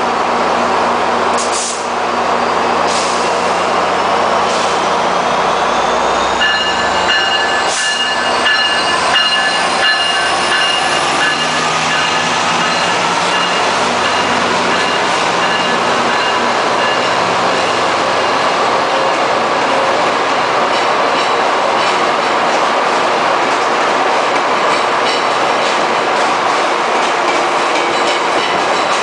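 Metrolink EMD F59PH diesel locomotive pulling a commuter train out of the station, its engine running under power with a rising whine over the first several seconds. Bilevel coaches then roll past with a steady rumble of wheels on rail and high, steady wheel squeal.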